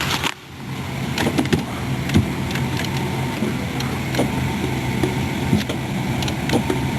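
2000 Dodge Durango SLT engine idling steadily on a jump box after a dead battery, with a few sharp clicks from inside the vehicle.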